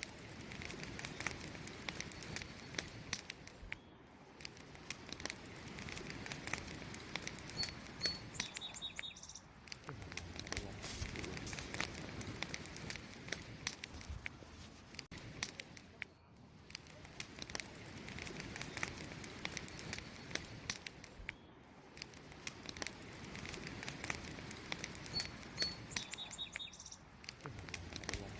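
Wood fire crackling, with dense sharp pops and snaps over a low rumble of burning. A short bird chirp comes twice, about 8 seconds in and again near the end.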